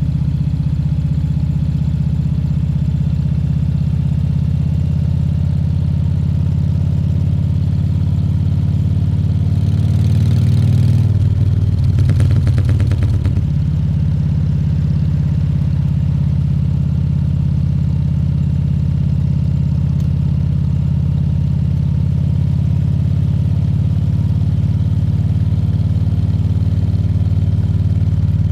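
Harley-Davidson Fat Bob 114's Milwaukee-Eight 114 V-twin running steadily under way. About ten seconds in the engine note rises and grows louder, with a rattly edge for a few seconds, then settles back to a steady run.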